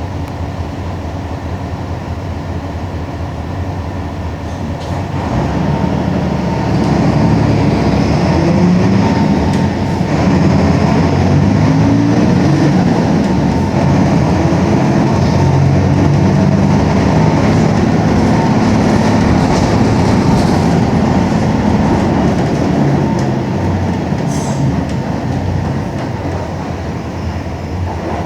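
Mercedes-Benz OM-366LA turbo-diesel straight-six of an OF-1721 city bus running under way. It pulls harder from about six seconds in, its note rising and falling through the middle, and eases off again near the end.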